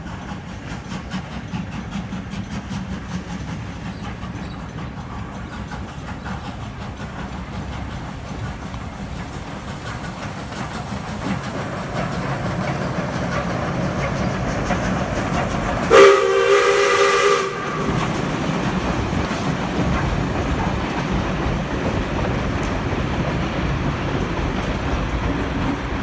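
Steam locomotive 621, a South Australian Railways 620 class Pacific, pulling away, its exhaust beats and running gear growing louder as it nears. About sixteen seconds in it sounds one short chord whistle blast, the loudest sound here, then runs on.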